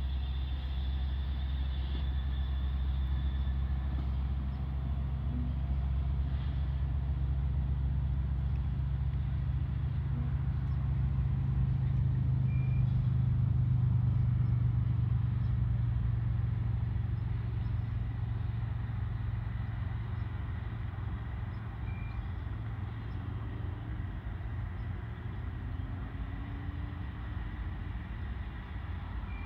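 Low rumble of a distant Canadian Pacific diesel locomotive, growing louder toward the middle and easing off after.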